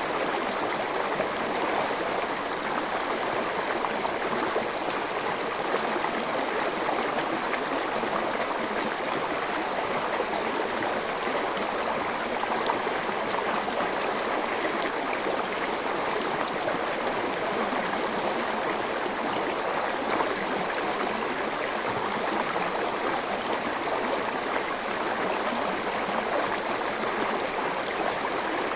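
A forest stream flowing steadily over rocks, a constant rush of water with no breaks.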